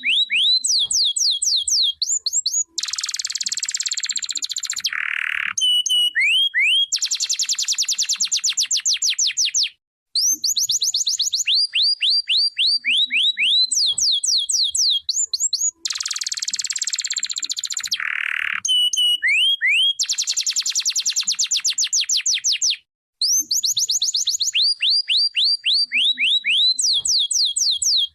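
Domestic canary singing long songs of repeated rising whistled sweeps and fast buzzing trills. The song breaks off briefly twice, about every 13 seconds, then starts again.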